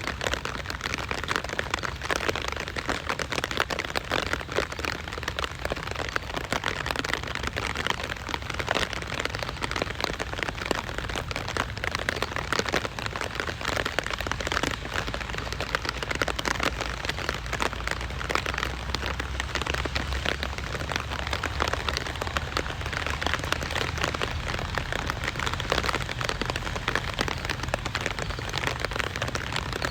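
Steady rain falling, a dense patter of many drops on surfaces with a low rumble underneath.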